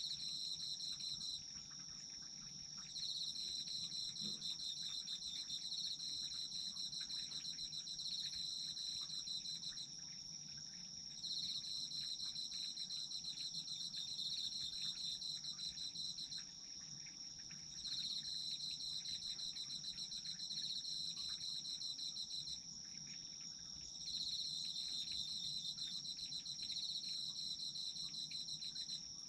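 Autumn insects trilling: one keeps up a steady, high, unbroken trill, while a second, slightly lower trill comes in pulsing bouts of about five seconds, each followed by a short pause of a second or so.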